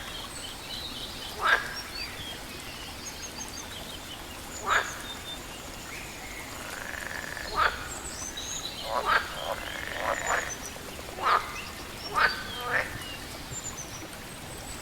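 Frogs croaking in single loud calls, spaced a second or a few seconds apart and bunched closer together in the second half, with faint high bird chirps behind them.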